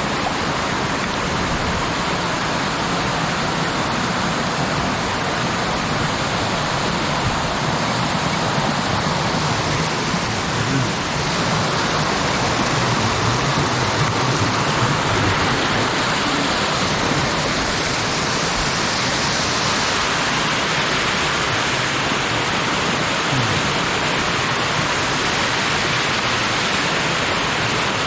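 Mountain stream water rushing, a loud steady rush with no let-up.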